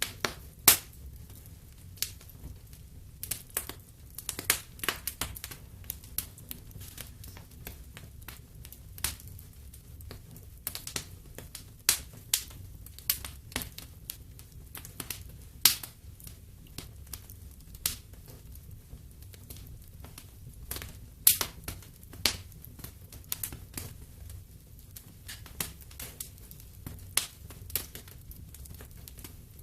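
Wood fire in a fireplace crackling, with irregular sharp pops and snaps, a few much louder than the rest, over a steady low rumble.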